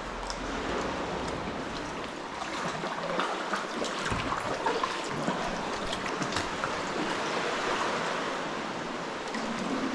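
Sea water lapping and sloshing steadily, with many small splashes and drips.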